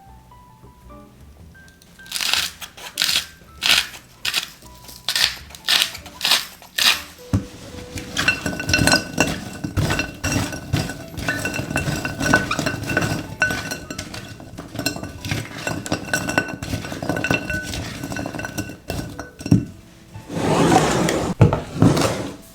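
Utensil clinking and stirring in a glass mixing bowl, the bowl ringing. First come about a dozen separate clinks, then fast continuous clinking, and a short scraping rush near the end. Soft background music runs underneath.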